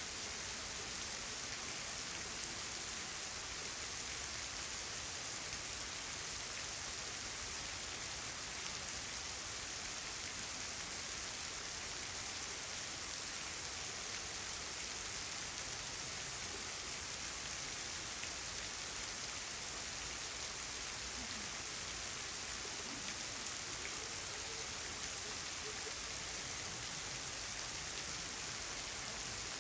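Rain falling steadily: an even hiss without breaks or distinct drops.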